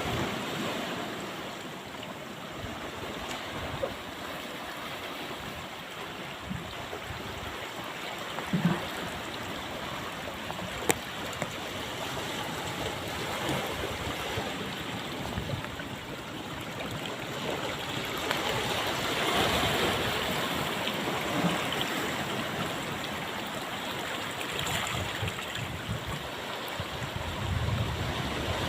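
Ocean surf breaking and washing up a beach: a steady rushing that swells about two-thirds of the way through, with two brief knocks in the first half.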